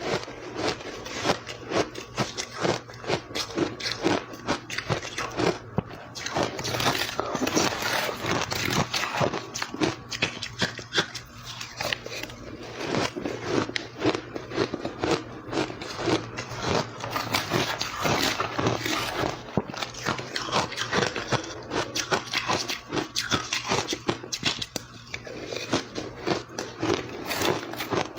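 Close-up crunching of powdery crushed ice being bitten and chewed, a dense run of crisp crackling crunches with no pause.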